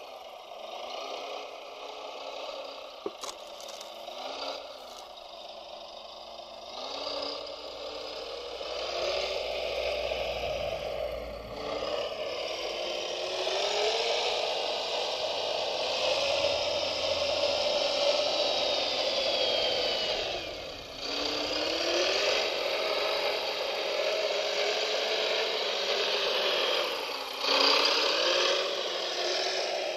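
Radio-controlled model construction machinery running: small electric motors whine, rising and falling in pitch as they speed up and slow down, over rattling and scraping of the working parts.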